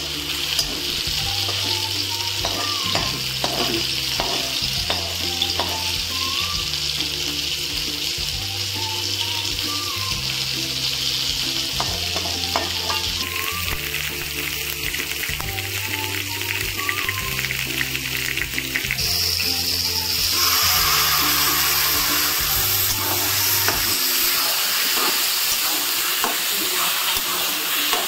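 Food sizzling as it stir-fries in oil in an aluminium kadai, with a metal spatula scraping and stirring against the pan: first onion and green chilli, then seeds in oil, then chickpea greens with potato. The sizzle grows louder about two-thirds of the way through. Background music with low repeating notes plays under it until near the end.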